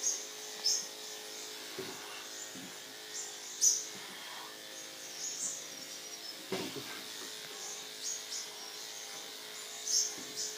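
Andis electric dog clipper with a number 7 blade running with a steady buzz as it shears through a dog's body coat. Short sharper bursts come every second or two, the loudest about three and a half seconds in.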